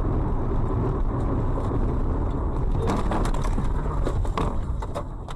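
Steady heavy rumble of a road vehicle in motion, with a few short sharp knocks about halfway through.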